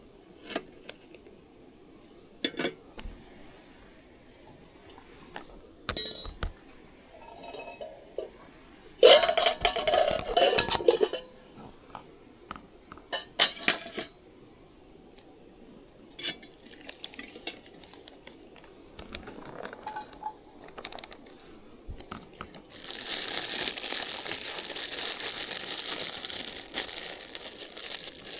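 Cookware and utensils clinking and knocking in scattered strokes, with a louder ringing scrape about nine seconds in, and a steady hiss over the last five seconds.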